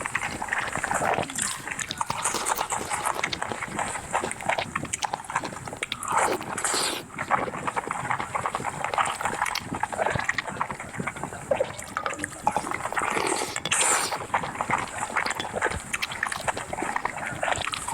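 Close-miked wet eating sounds: chewing and slurping food, a dense, irregular run of small smacks and clicks with a few longer slurps.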